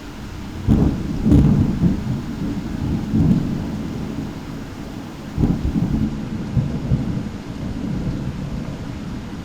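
Thunder over steady rain: a sharp clap about a second in that rolls on in a low rumble for several seconds, then a second clap about five seconds in with more rumbling.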